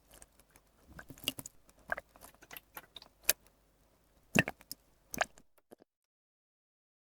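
Water being squeezed and dripped from a dropper: a scatter of small irregular drips and clicks that stops about five and a half seconds in, leaving silence.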